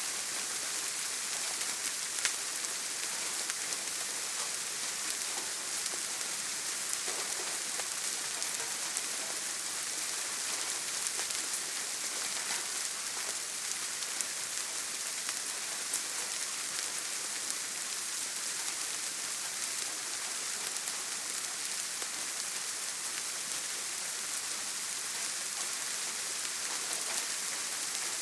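Steady heavy rain on a tin roof, an even hiss with now and then a sharper drop tick.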